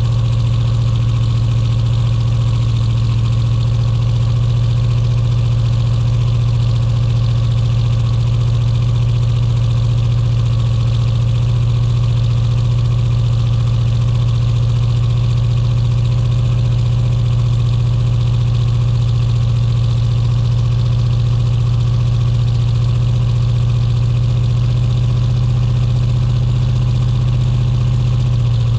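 Chevy S10's swapped-in 350 small-block V8 idling steadily during warm-up after a cold start, a bit rough because it is not yet fully tuned.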